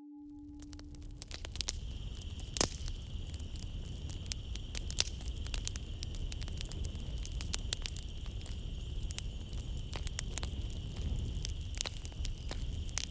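Wood fire crackling in a fireplace, with frequent sharp pops over a low rumble, and a steady high chorus of night insects behind it. The sound fades in over the first second or two.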